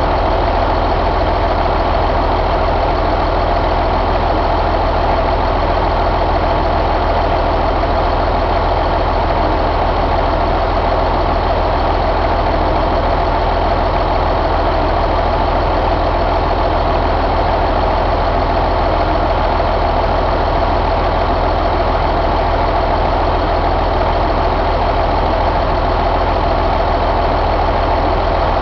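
Caterpillar C15 inline-six diesel engine running steadily at idle.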